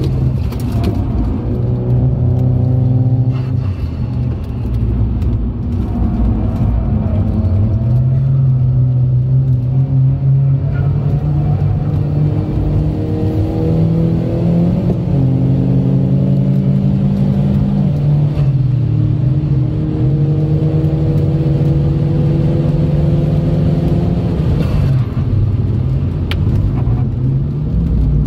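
Turbocharged Saab engine heard from inside the car under hard track driving. Its pitch climbs, drops in steps at the gear changes, climbs again, then falls away near the end as the car slows for a corner.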